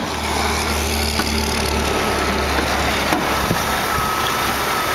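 Cadillac Northstar 4.6-litre 32-valve V8 idling steadily, heard with the hood open; a thin steady high whine comes in about three seconds in.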